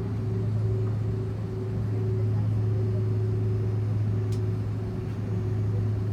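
Steady cabin drone inside an Airbus A330-300 airliner on the ground after landing: a constant low hum with a steady tone above it from the engines and air system.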